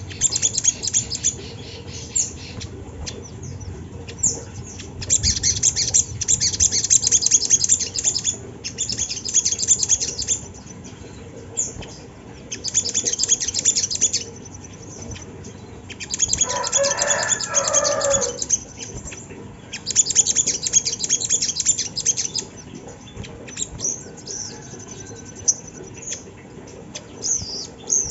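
Crimson sunbird (sogon) singing: bursts of rapid, very high-pitched trills, each one to three seconds long, repeated with short gaps. Once, past the middle, a lower warbling call joins for about two seconds.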